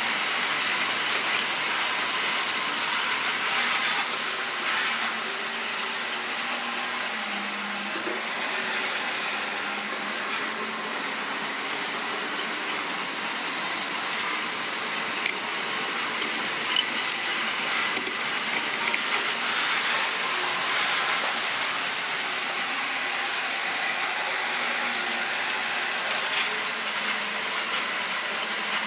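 Model railway train running on the track: a steady whirring hiss of the wheels on the rails and the locomotive's motor, with a few sharp clicks around the middle.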